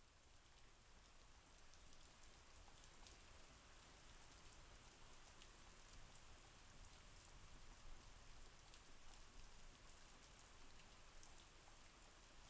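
Faint, steady rain falling, with scattered single drops ticking on a surface, growing slightly louder.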